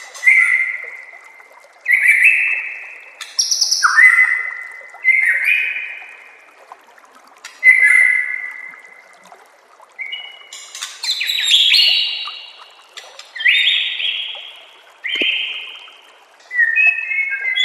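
White-rumped shama (murai batu) singing a series of short, loud song phrases a second or two apart, mostly clear whistled notes with some quick higher notes mixed in.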